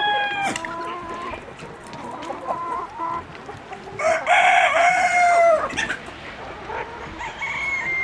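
Chickens in a flock: a rooster crows once, long and loud, about four seconds in, with hens clucking around it. The tail of an earlier crow fades out at the start, and a short call comes near the end.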